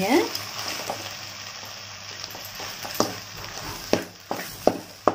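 Shredded shark and egg crumble frying with a soft sizzle in a steel kadai as a metal spoon stirs and turns it. In the second half the spoon knocks and scrapes against the pan in several sharp clicks.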